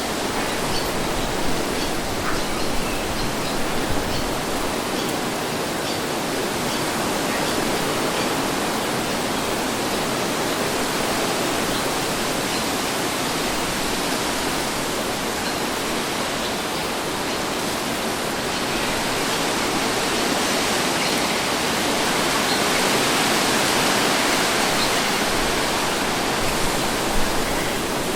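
Steady wind noise, an even rushing that swells a little past the middle.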